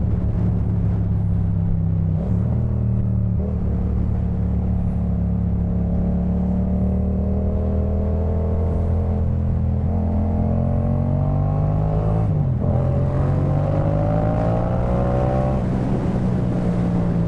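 Yamaha MT-07's 689 cc parallel-twin engine running through a Jeskap K4 full exhaust while riding. Its pitch climbs steadily under acceleration, drops sharply about twelve seconds in as at a gear change, climbs again, then falls off near the end as the throttle is closed.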